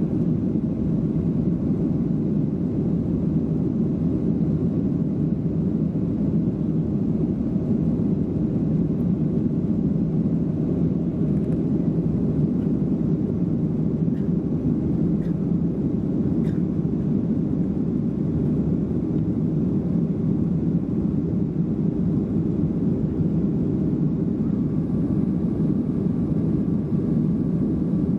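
Steady rumble of an airliner's engines, with no rise or fall.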